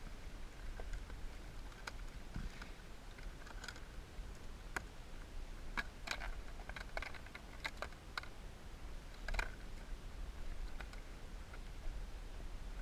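Scattered light clicks and small knocks at irregular spacing, with a cluster of them in the middle, over a steady low rumble.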